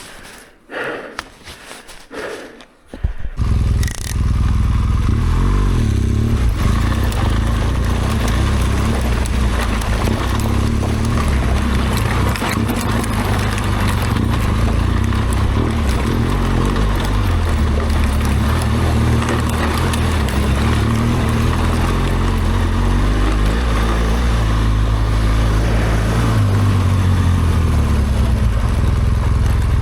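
BMW R1200GS Adventure's boxer-twin engine comes in loud about three seconds in, after a few light sounds, and then runs steadily under way, its pitch shifting with the throttle and rising near the end.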